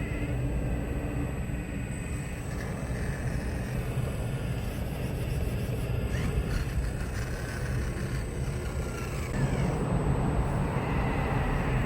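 Excavator running, with a steady low rumble and a faint whine that slides up and down in pitch partway through. The machine gets louder a little after the middle and stays there.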